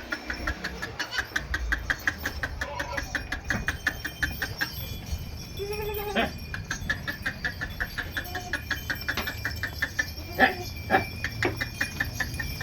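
Goat bleating: one long bleat about halfway through, then a few shorter bleats near the end. Under it runs a fast, even high chirping of about six pulses a second.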